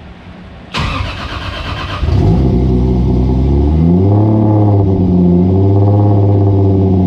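Toyota Supra's turbocharged 2JZ-GTE inline-six being cranked by the starter for about a second, then catching and running at a normal low idle for a moment before the revs rise to a steady high idle about two seconds later. The high idle is a fault the owner suspects comes from the idle air control valve.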